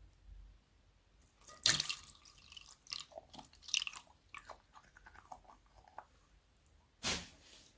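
Slime being squished and handled: a quick run of sharp crackles and pops starting about a second and a half in, a short lull, then another sharp pop near the end.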